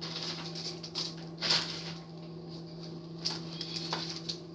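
Light rustling and a few short clicks from craft decorations being handled, over a steady low hum.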